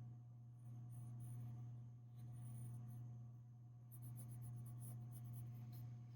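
Colored pencil scratching on paper in short stretches of strokes while drawing, faint over a steady low hum.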